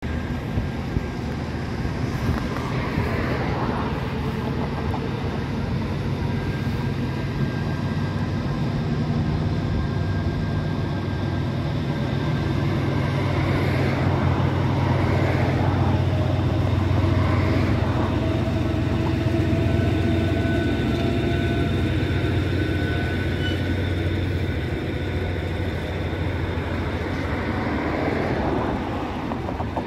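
Railway locomotive at a container terminal running with a steady low hum, with faint high whines drifting in and out.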